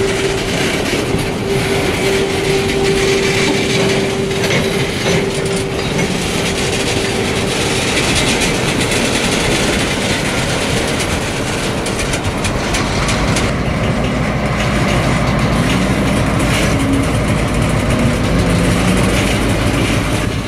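Freight train of refrigerated boxcars rolling past, its wheels clicking over the rail joints. A steady high tone rides over it for about the first eight seconds, and a deeper rumble builds in the second half.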